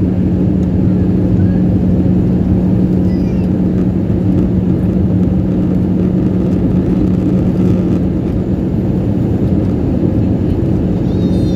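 Steady cabin noise of a jet airliner in flight: a continuous drone of engines and rushing air, with a steady low hum running through it.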